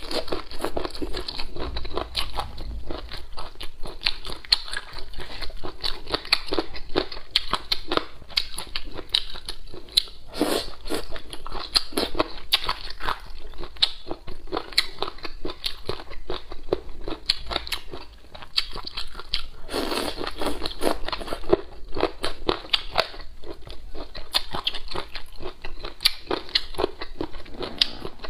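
Close-miked chewing and biting of boneless chicken feet in chili oil: a dense, continuous run of small crunches and clicks, with a few louder bites.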